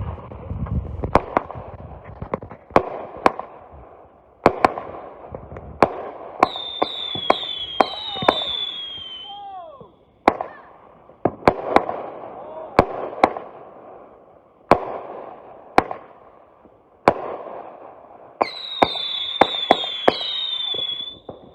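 TNT House of Cards firework cake firing a rapid string of shots and bangs, with two volleys of falling whistles, one about six seconds in and another near the end.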